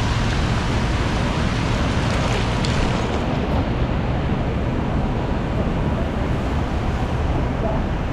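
Steady city traffic noise on rain-wet streets, a constant wash of tyre hiss and engines; the high hiss thins out about three and a half seconds in.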